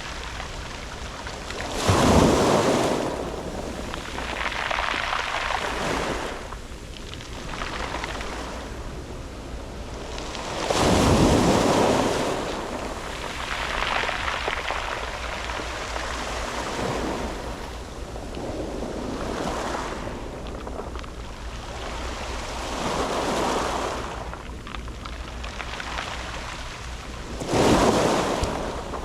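Sea waves breaking on a round-pebble beach and washing back, in repeated surges every few seconds; the three biggest waves break about two seconds in, about eleven seconds in and near the end. Wind on the microphone adds a steady low rumble.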